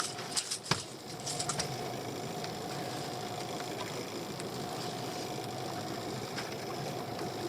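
Small boat's outboard engine running steadily with a faint constant hum, a few sharp knocks in the first second and a half.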